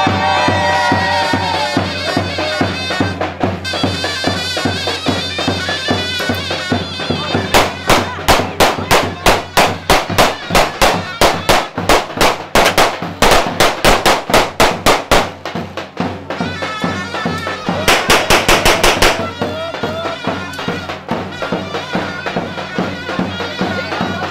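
Traditional folk music led by a reedy, bagpipe-like wind instrument playing an ornamented melody. Through the middle, sharp beats at about three or four a second join in, with a shorter run of them near the end.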